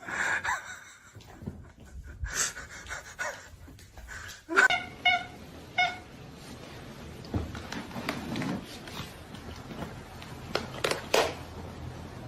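A dog panting, with several short high-pitched squeaky sounds around the middle.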